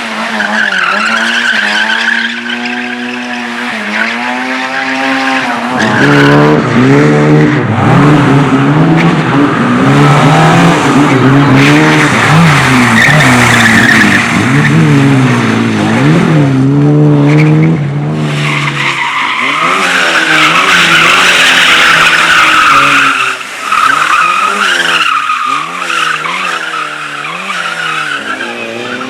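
Race cars driven hard through a slalom course, their engines revving up and down with throttle and gear changes, and tyres squealing through the turns. The engine sound gets louder and deeper about six seconds in.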